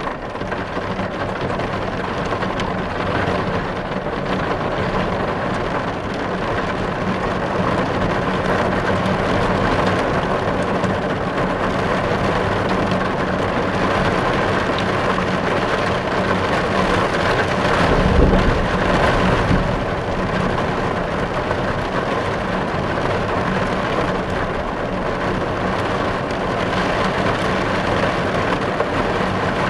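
Heavy rain drumming steadily on a car's windows and body, heard from inside the car. About two-thirds of the way through, a low rumble swells briefly and fades.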